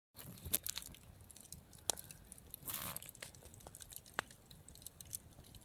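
Wood campfire crackling, with scattered sharp pops and a brief rustle about three seconds in.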